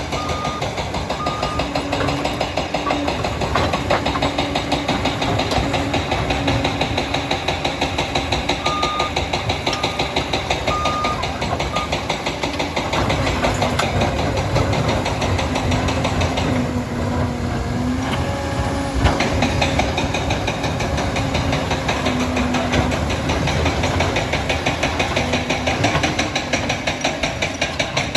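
Liebherr 746 crawler dozer's diesel engine running with a fast, steady clatter, its reversing alarm beeping about once a second near the start and again around nine seconds in.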